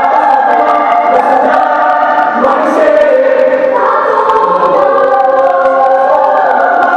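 A mixed choir singing in parts, holding sustained chords that change every second or so.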